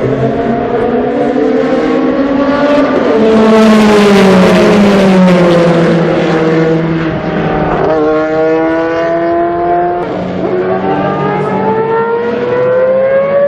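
Group C sports-prototype race car engine at high revs. It is loudest about four seconds in, its pitch sliding down as the car passes. Two abrupt pitch changes come near 8 and 10 seconds, like gear changes, and then the engine climbs in pitch again as it accelerates.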